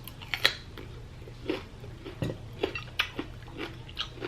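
Cutlery clicking against a dish while eating, a string of short irregular clicks.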